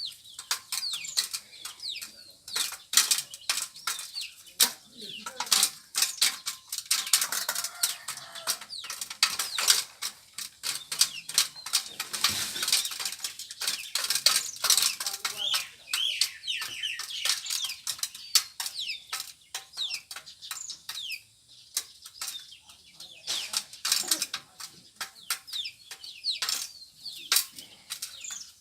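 Turkeys pecking at feed: a dense, irregular patter of quick sharp taps, mixed with many short high chirps.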